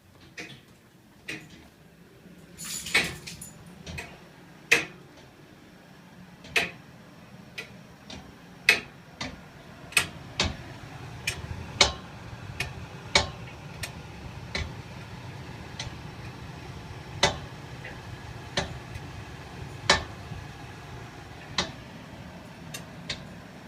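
Heating radiator and its pipes knocking and ticking: sharp, irregular metallic clicks, roughly one every second or two, some much louder than others. From about ten seconds in, a low steady rushing sound rises beneath them.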